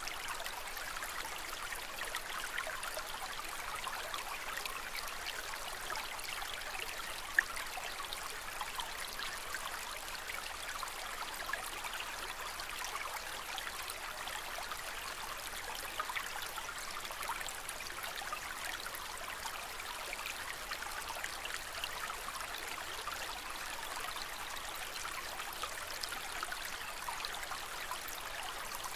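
Aquarium water trickling and splashing steadily, full of tiny droplet ticks, with one sharp click about seven seconds in.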